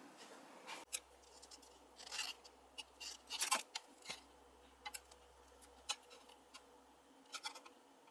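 A series of irregular sharp clicks and short scraping sounds, several close together in the middle, with no engine running.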